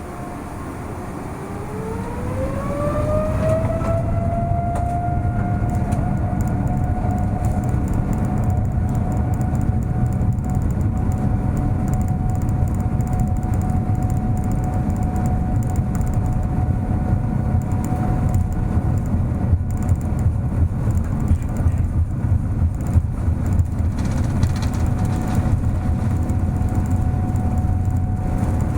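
Boeing 787-9's jet engines spooling up to takeoff thrust, heard from inside the cabin: a whine rises in pitch over the first few seconds, then holds steady over a loud, growing rumble of the takeoff roll.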